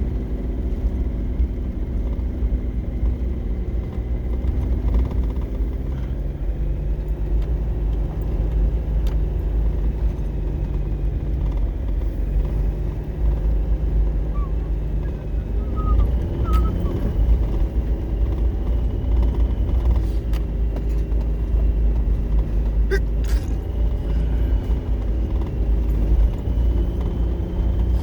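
A motor vehicle running with a steady low rumble; its engine note shifts pitch a few times.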